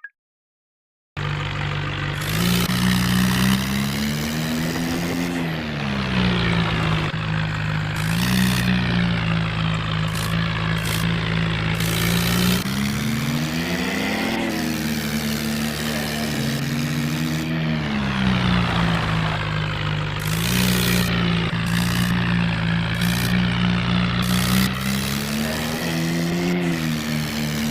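Engine-like running sound of RC toy tractors, its pitch rising and falling repeatedly as if revving. It starts suddenly about a second in.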